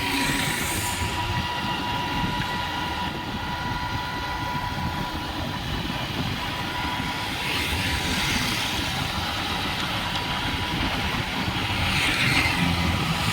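Steady low rumble of a vehicle running, with swells of hiss about eight seconds in and again near the end.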